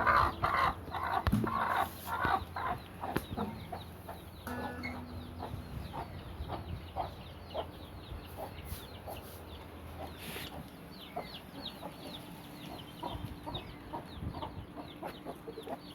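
Chickens clucking, loudest in the first few seconds, then quieter clucks mixed with many short high calls.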